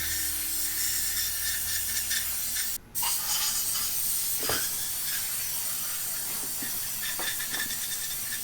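Compressed-air blow gun blowing a steady hiss of air through a cleaned baritone slide, drying it. The air stops for a moment about three seconds in, then resumes.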